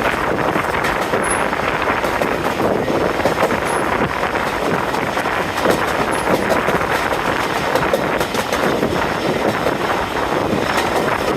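Train hauled by Class 45 diesel locomotive 45108 on the move: a steady running rumble with wind buffeting the microphone.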